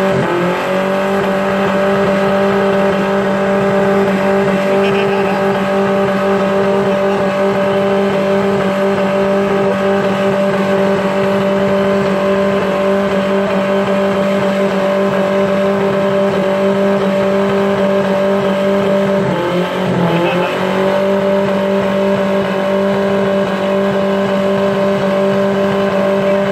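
Minivan engine held at high revs during a burnout, a loud steady drone over the hiss of the spinning, smoking tyres. The revs dip briefly and climb straight back once at the very start and again about 20 seconds in.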